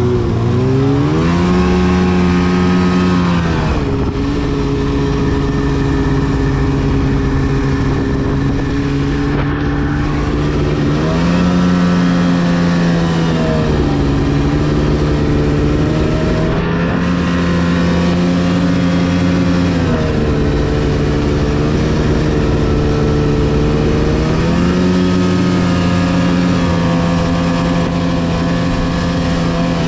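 2010 Arctic Cat CFR 1000 snowmobile's two-stroke twin engine running under way, its pitch climbing as the throttle is opened and settling back, several times over.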